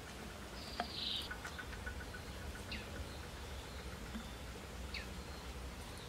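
Small wild birds calling over a steady low background: a short buzzy trill about half a second in, then two quick falling chirps a couple of seconds apart. A single sharp click comes just before the one-second mark.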